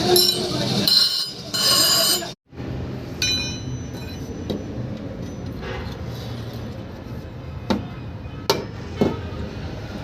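Hammer striking iron on an anvil during forging: loud, ringing metallic clangs. About two seconds in the sound cuts off abruptly; after that there is a steady background hum with a few sharp, isolated knocks.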